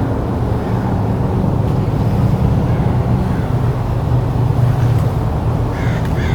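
Steady low rumble, like road traffic, throughout; near the end ducks start quacking.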